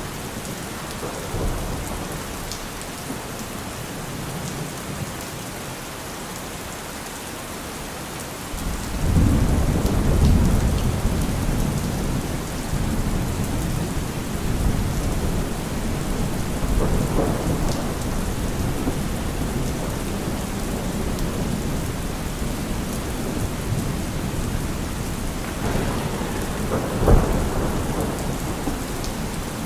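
Steady heavy rain falling, with thunder rumbling: a deep roll builds about a third of the way in and carries on, and a sharper thunder crack comes near the end.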